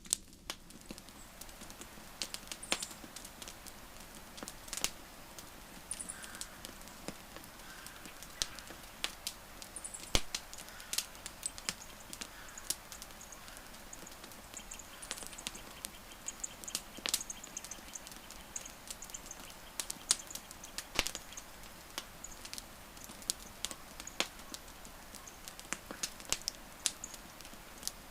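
Burning wood fire crackling: irregular sharp pops and snaps, several a second, over a soft steady hiss.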